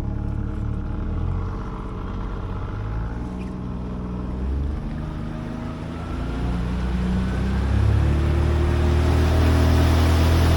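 Tiller-steered outboard motor on a small jon boat running steadily, then throttled up about six seconds in, its pitch rising and its sound growing louder as the boat accelerates and comes up on plane.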